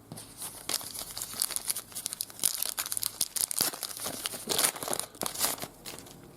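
Paper wrapper of a trading card pack being torn open and crinkled, a dense run of crackles lasting several seconds.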